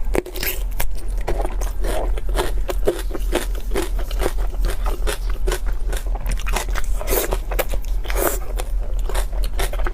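Close-miked eating of seafood: biting and chewing with many quick wet mouth clicks and crunches, over a steady low hum.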